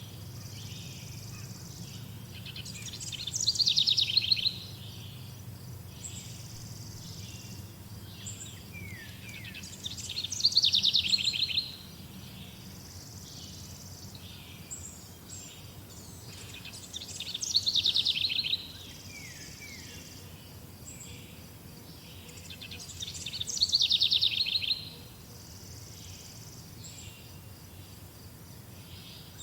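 Wild birdsong: one songbird repeats a loud, fast trilled phrase that falls in pitch, four times at about seven-second intervals. Softer chirps from other birds and a faint low hum run underneath.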